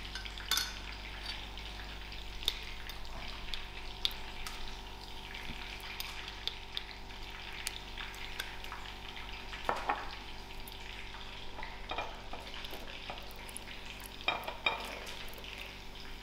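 Breaded chicken schnitzel frying in hot oil in a pan, a steady sizzle, with scattered light clicks and taps of a spoon against a glass jar and plate, the loudest about ten seconds in.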